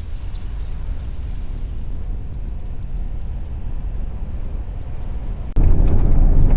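Road noise inside a moving car on a muddy back road, a steady low rumble. About five and a half seconds in it jumps abruptly to a louder, rougher rumble with a few clicks.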